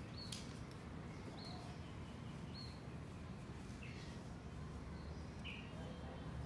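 Faint short high bird chirps, about five of them at irregular intervals, over a steady low background hum.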